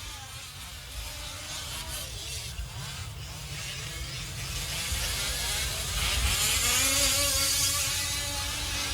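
Gas-powered 1/5-scale RC off-road trucks running on the track, their small two-stroke engines whining and rising in pitch as they accelerate. The sound grows louder in the second half.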